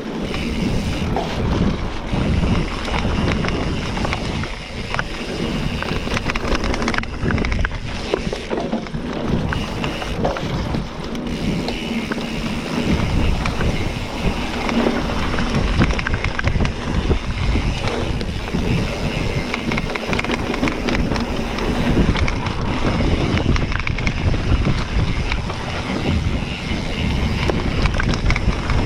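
Mountain bike riding down a dirt trail: tyres on dirt, the bike rattling and clicking over bumps, and wind buffeting the microphone.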